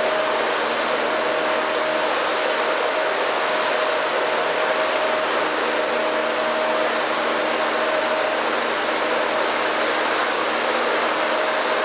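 KB-3 "Profi" three-spindle log-rounding machine running, its motors and cutter heads spinning: a loud, steady noise with a steady whine.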